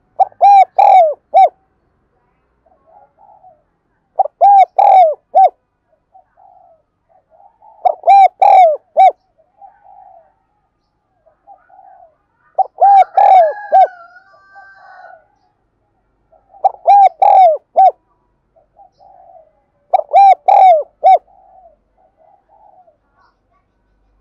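Spotted dove cooing: six loud phrases, about one every four seconds, each a run of three or four rounded coos, the last one clipped short. Softer low coos fill the gaps between phrases, and a brief higher gliding note sounds over the phrase about thirteen seconds in.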